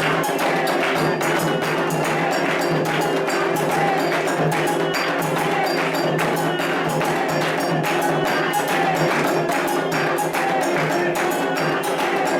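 Candomblé ritual percussion music: atabaque hand drums and a metal bell playing a dense, steady rhythm for Iansã.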